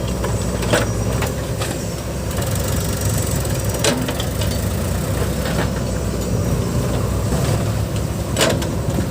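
Heavy diesel machinery engine running steadily, with a few sharp knocks, the clearest about four seconds in and near the end.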